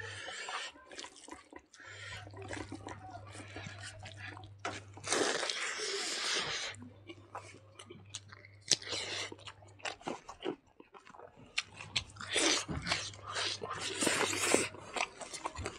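A person chewing a mouthful of rice and pork tail close to the microphone, with irregular clicks and louder bursts of mouth noise.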